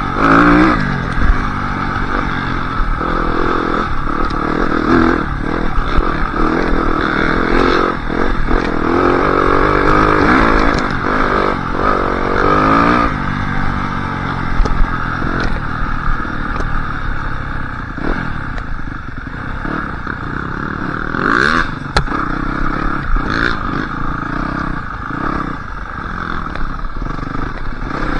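Yamaha YZ250F four-stroke single-cylinder dirt bike engine running on a trail ride, its revs rising and falling again and again, with clattering knocks from the bike over rough ground.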